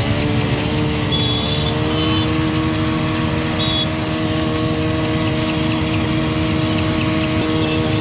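A motor vehicle engine running steadily at one pitch, over continuous traffic noise. A few short high-pitched beeps come about one to two seconds in and again near the four-second mark.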